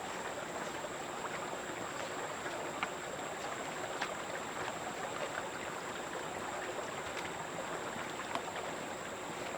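Steady rushing noise with a thin high steady whine and a few scattered faint clicks.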